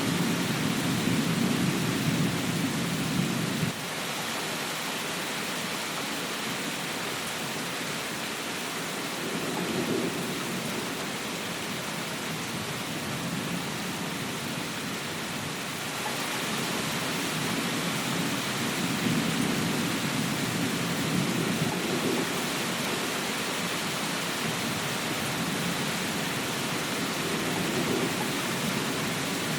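Steady rain, with a low rumble underneath that comes and goes. The rumble cuts off abruptly a few seconds in, swells briefly about a third of the way through, and builds again through the second half.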